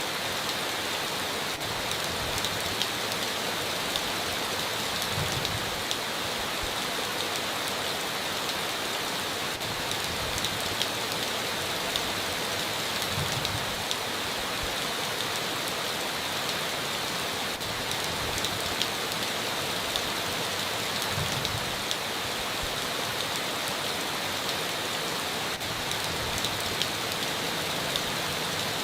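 Steady heavy rain falling: a continuous hiss with individual drops ticking through it.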